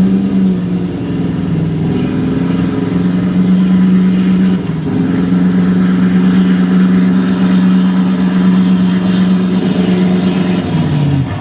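Pulling truck's engine held at high, steady revs under heavy load as it drags the sled, with a brief dip in pitch just before halfway and the revs falling away near the end as the pull finishes.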